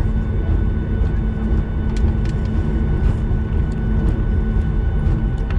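Cabin noise of a Boeing 737 on the ground after landing: a steady low rumble with a few faint steady tones and a few faint clicks.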